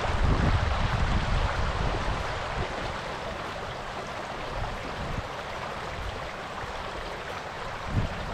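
The Little Qualicum River rushing in a steady wash of water noise, with wind buffeting the microphone in the first second or so.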